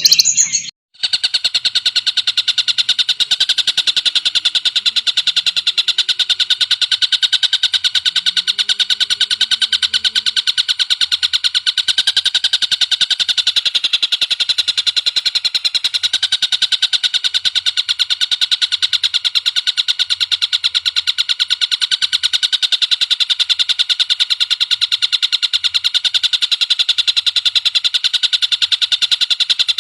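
A songbird's rapid-fire trill, a fast, even rattle of high notes repeated without pause, starting after a brief break about a second in.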